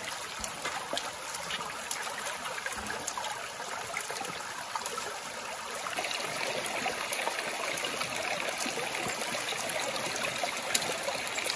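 Water running and trickling steadily, with small splashing ticks, growing a little louder about halfway through.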